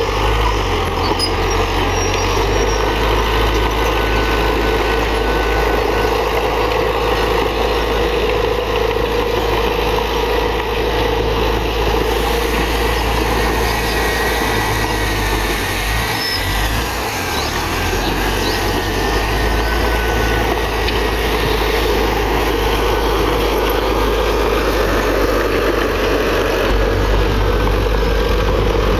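Heavy diesel earthmoving machinery running steadily under work, a continuous low engine rumble that eases briefly about two-thirds of the way through before picking up again.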